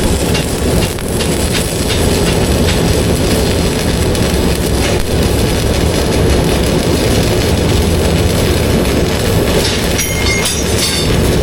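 Electric welding arc crackling steadily during a practice weld bead, with a heavy low rumble under it.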